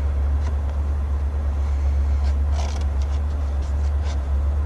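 A machine's engine idling with a steady low hum, with faint rustling and clicks of a package being opened over it.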